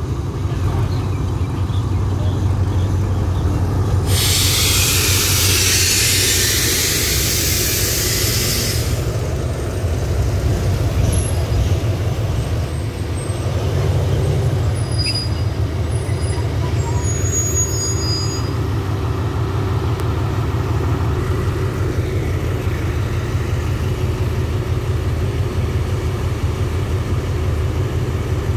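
Diesel-hauled passenger train passing close by: a steady low rumble from the locomotive and the rolling coaches. About four seconds in, as the locomotive goes by, a loud hiss of air lasts about five seconds, and brief high squeals come from the wheels or brakes in the middle.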